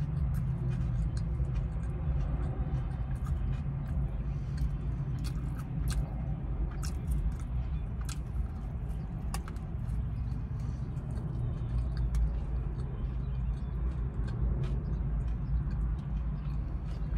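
Close-up chewing and mouth smacking while eating a turkey sub, with many short, irregular wet clicks, over a steady low hum from the car.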